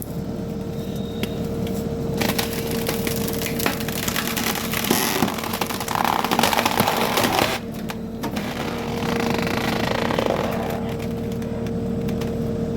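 Wood cracking and splintering as a skid steer's hydraulic tree shear cuts into a tree trunk, densest from about two to seven and a half seconds in, over the skid steer's engine running with a steady whine.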